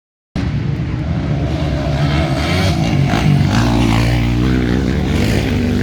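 Motocross bike engines revving hard, their pitch rising and falling. The sound cuts in suddenly about a third of a second in.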